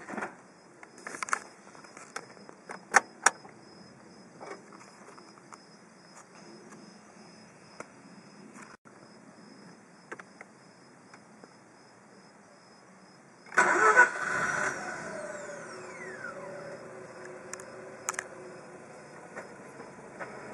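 A few clicks and small knocks, then about thirteen and a half seconds in the 2003 Mazda RX-8's twin-rotor Wankel rotary engine cranks and fires almost at once. A whine falls in pitch as it catches, and the engine settles into a steady fast idle near 1,500 rpm.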